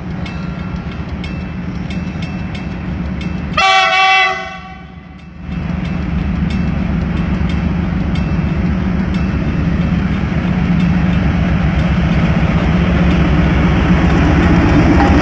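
CRRC Qishuyan CDD5A1 diesel-electric freight locomotive approaching, its engine rumble growing steadily louder. One short horn blast sounds about four seconds in.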